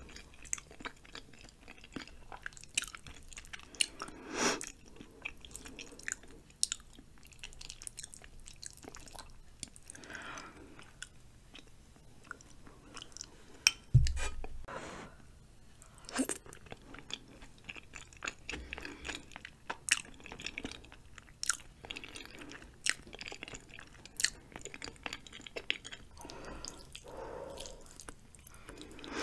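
Close-miked chewing of spicy ramen noodles and chewy cheesy rice cakes, with many wet mouth clicks. A single heavy thump about halfway through is the loudest sound.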